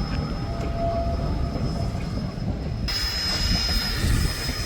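Southern Pacific narrow-gauge steam locomotive No. 18, a Baldwin 4-6-0, running along the track with a steady low rumble. The sound changes abruptly about three seconds in.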